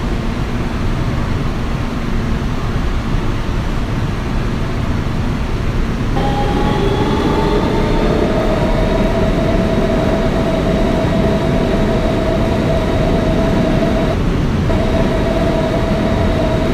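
Kawasaki R160B subway car with Siemens propulsion under way, heard from inside the car: a steady rumble of wheels on rail. About six seconds in, the traction motors' whine starts and rises in pitch, then holds a steady tone that breaks off briefly near the end.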